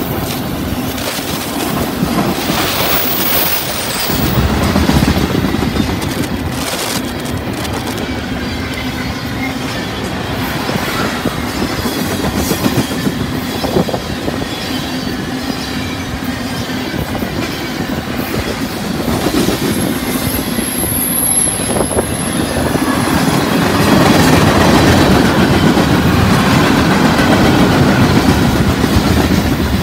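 Freight train rolling past at close range, a string of autorack, tank and covered hopper cars, with steel wheels clicking over rail joints under a steady rumble. A brief high wheel squeal sounds about two-thirds through, and the rumble grows louder near the end.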